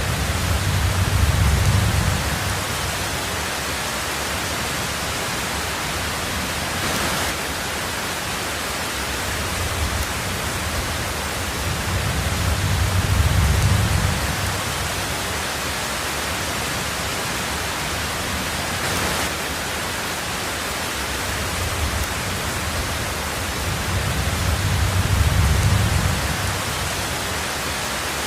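Steady heavy rain hiss with low rumbles of thunder swelling three times, about twelve seconds apart.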